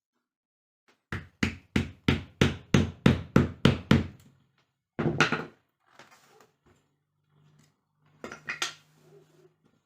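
Hammer strikes: a quick run of about ten blows at roughly three a second, then one heavier blow, and a few more knocks near the end.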